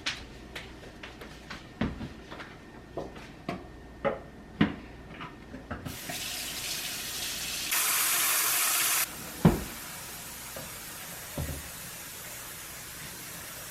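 Knocks and clunks of a plant and its pot being handled in a sink, then about six seconds in the kitchen tap turns on and runs steadily into the sink. The flow is louder for about a second and a half, and there is one sharp knock just after.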